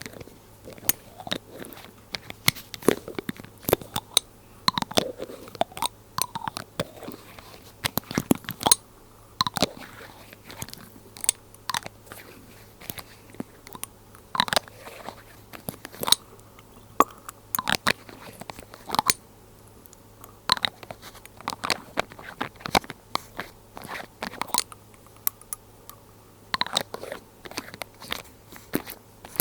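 Glass droppers handled close to the microphone: irregular crisp clicks and taps of glass and lids, with a few short wet squelches of liquid.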